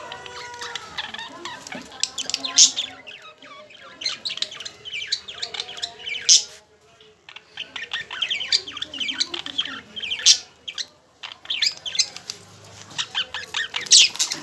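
Pet budgerigars chattering and warbling: fast runs of high chirps, broken by sharper, louder squawks about two and a half, six, ten and fourteen seconds in.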